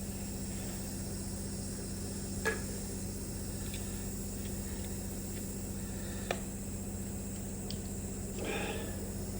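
Steady low electrical hum with two sharp clicks of small hard parts being handled, and a brief rustle near the end.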